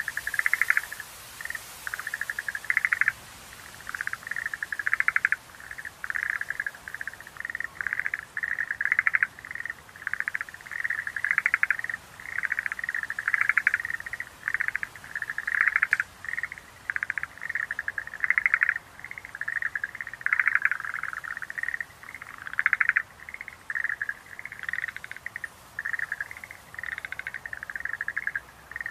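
Schlegel's green tree frogs calling: rapid pulsed trills at a fairly high, steady pitch, one after another with short gaps between them.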